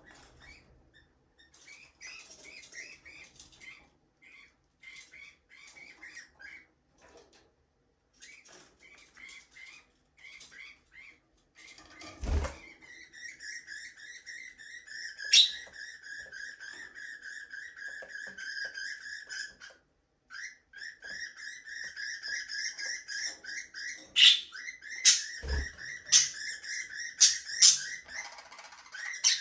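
Budgies chirping softly at first, then breaking into a continuous chattering warble with sharp calls mixed in. Two dull thumps, about a third of the way in and again near the end.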